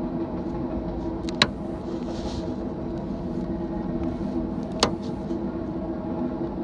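Norfolk Southern grain train rolling past: a steady rumble with a steady, droning hum of tones, broken by two sharp knocks, about a second and a half in and near five seconds.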